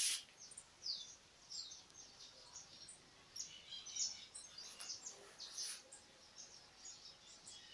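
Birds chirping: many short, high calls, each falling in pitch, scattered throughout, faint against a light background hiss.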